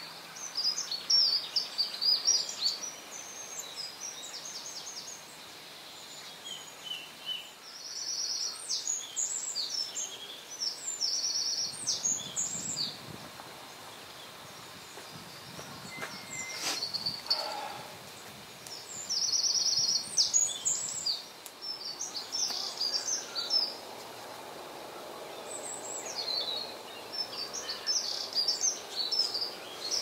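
Several songbirds singing in short phrases of quick trills and chirps, over a faint steady outdoor hiss.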